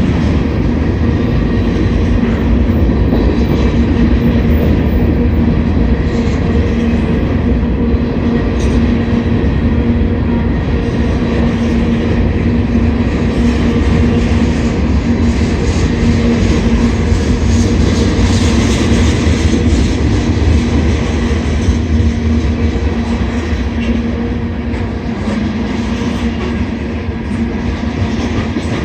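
Slow-moving freight train rolling past, a steady rumble of the freight cars' wheels on the rails with a constant low hum.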